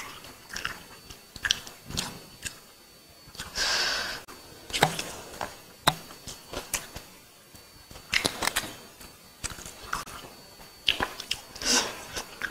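Close-miked eating sounds of a person eating biryani by hand: chewing and lip-smacking with irregular wet clicks, mixed with the soft sounds of fingers working the rice.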